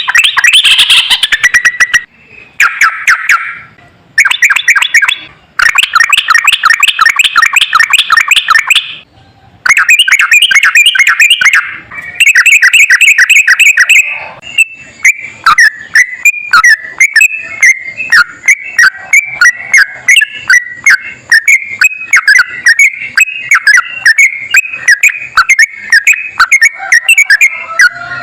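Yellow-vented bulbul singing a long, fast song: quick runs of repeated chattering notes broken by short pauses, then from about halfway a long unbroken stream of rapid warbling notes.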